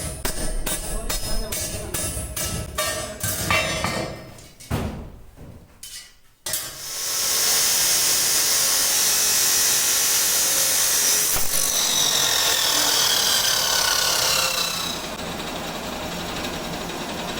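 Rhythmic music with knocking for the first few seconds. After a short lull, a power tool starts about six seconds in and runs loudly for about eight seconds, its high whine slowly falling, then drops to a quieter steady running sound.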